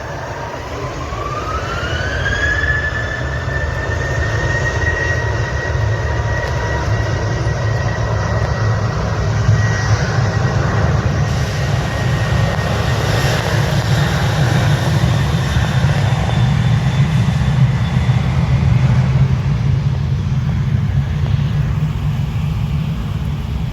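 Boeing 737 jet engines spooling up for takeoff: a whine rises over the first few seconds, then holds steady at takeoff thrust over a loud, constant low rumble.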